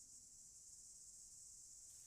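Faint, steady, high-pitched drone of insects in the surrounding vegetation, with no other sound.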